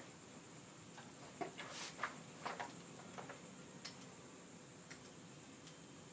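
A few faint, irregular clicks and light knocks, bunched together in the first half.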